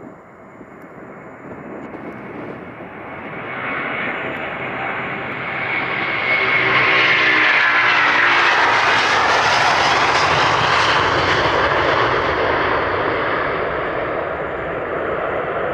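Widebody jet airliner taking off and passing the listener: the engine noise builds for several seconds, then holds loud, with a whine that falls in pitch as the aircraft goes by.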